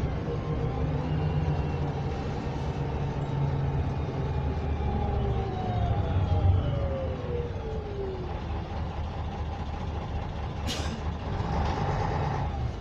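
Inside a MAZ-104 city bus: its YaMZ-236M2 V6 diesel drones steadily while the bus drives, with a whine that falls in pitch midway as it slows. Near the end there is a short sharp hiss of compressed air, typical of the air brakes.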